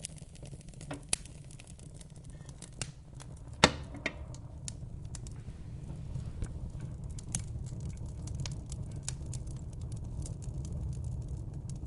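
Fireplace fire crackling: a steady low rumble of flames with scattered sharp pops, one much louder pop a little under four seconds in.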